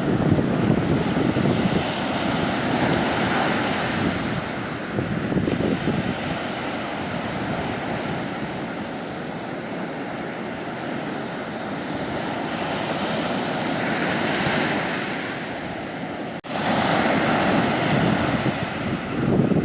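Sea waves breaking and washing up a beach, the surf swelling and easing every few seconds, with wind buffeting the microphone. About sixteen seconds in the sound dips sharply for a moment and comes back louder.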